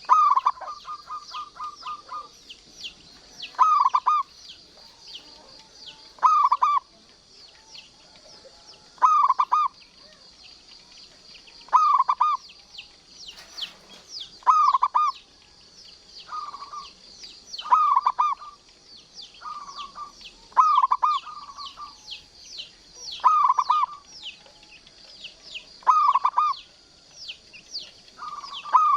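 Zebra dove (perkutut) cooing over and over, one short coo phrase about every two and a half to three seconds, the first one trailing into a quick run of even notes. Thin high-pitched chirping goes on underneath.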